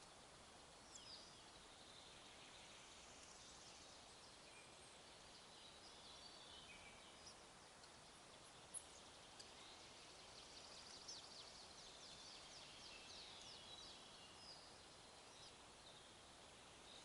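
Faint forest ambience: a steady soft hiss with small birds chirping and twittering here and there, busiest in the second half.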